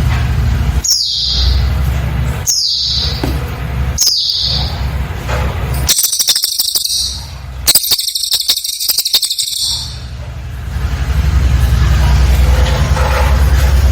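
Cililin bird song: three short high whistled notes, each falling in pitch, about a second and a half apart, then two bursts of rapid, tightly packed trilling notes, each over a second long. A steady low hum underlies the recording outside the calls.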